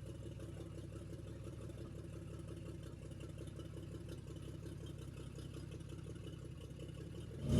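A vehicle engine idling: a faint, steady low rumble with a quick, even pulse.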